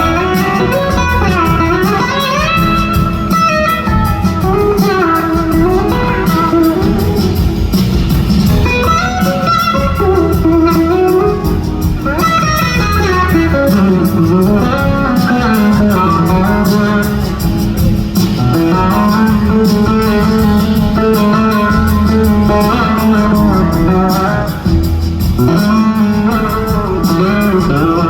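Live band playing an instrumental passage, led by an electric slide guitar solo whose notes glide up and down over bass and drums.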